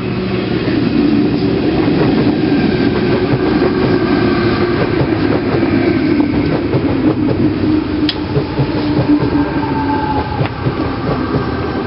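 Sydney Tangara double-deck electric commuter train passing close by, its wheels running over the rails with dense fine clicking under a loud rumble. A few faint steady tones sit above the rumble.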